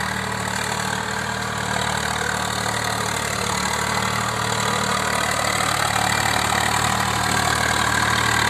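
Swaraj 744 FE tractor's three-cylinder diesel engine running steadily while it drives a rotavator through wet mud, slowly growing louder toward the end.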